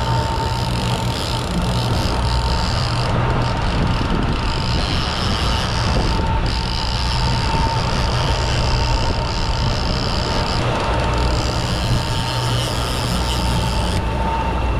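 Boat engine running steadily at trolling speed, a constant low hum with a thin steady whine, over water and wind noise.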